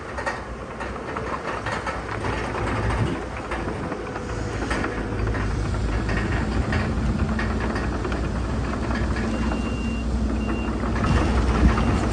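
Heavy earthmoving machinery at work: diesel engine rumble with metallic clanking and rattling, the engine getting louder and steadier about halfway through. A reversing beeper sounds intermittently about three-quarters of the way through.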